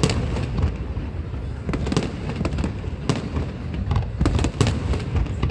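Aerial fireworks bursting in quick succession: a dense run of sharp cracks and deep booms over a continuous rumble.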